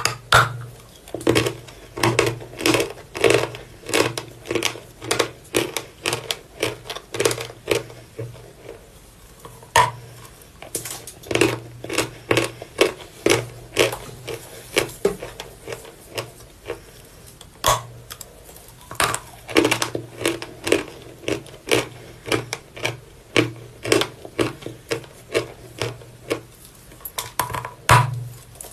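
Volokonovka chalk being bitten and chewed close to the microphone: a run of dry, crisp crunches, about two a second, with a few short pauses.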